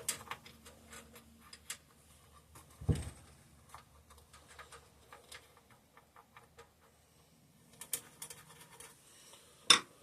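Faint, irregular clicks and light scraping of hand tools working on a small engine, with a dull thump about three seconds in and a sharp click near the end.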